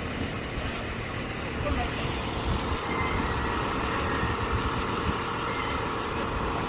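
Delivery truck's engine running at idle, a steady low rumble that gets a little louder about two seconds in.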